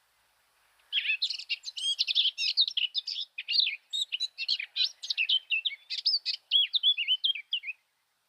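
Blue tit calling in a rapid run of high chirps and twitters, starting about a second in and stopping shortly before the end, slightly sped up and raised in pitch by 1.3× playback.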